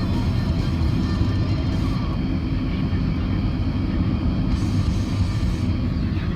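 Steady engine and road noise heard inside the cabin of a moving car, a continuous low rumble.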